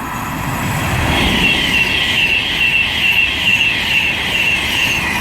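A Class 390 Pendolino electric train passing through at speed. The rush of wheels and air builds over the first second and then holds, with a high, wavering whine riding over it.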